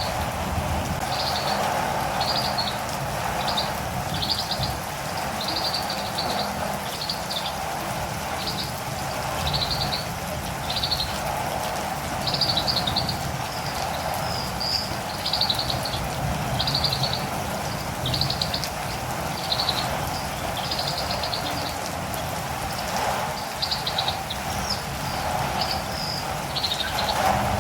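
Catirumbava (olive-green tanager) calling in a long series of short high chirps, about one a second, over the steady hiss of rain.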